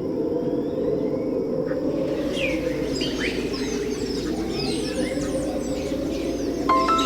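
Birds chirping over a steady rush of falling water from a waterfall, with a thin steady high whine in the first two seconds. Music with mallet-percussion tones comes in near the end.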